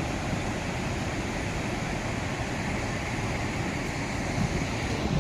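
Chitrakoot Falls on the Indravati River: the steady rushing of a large waterfall, an even wash of noise that holds at one level throughout.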